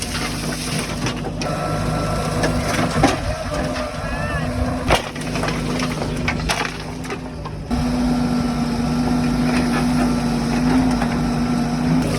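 Diesel engine of heavy machinery running steadily, with several sharp knocks and cracks over it.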